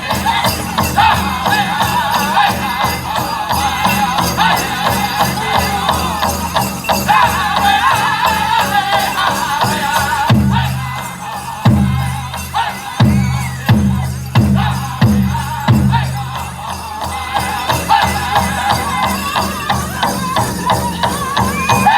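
A powwow drum group singing a chicken dance song over a big drum beaten in a fast, steady beat, with dancers' bells jingling. About ten seconds in, the drum switches for several seconds to a run of heavy, evenly spaced strikes, then the fast beat returns.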